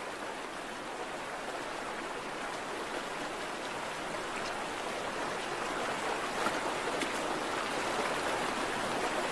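Steady rush of flowing stream water, growing slightly louder.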